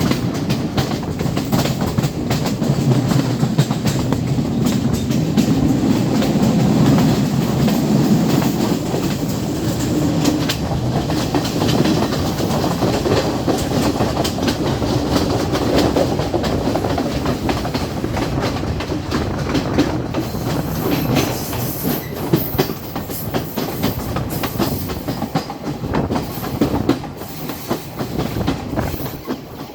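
Passenger train running along the track: a steady rumble with a constant run of clicks from the wheels passing over rail joints.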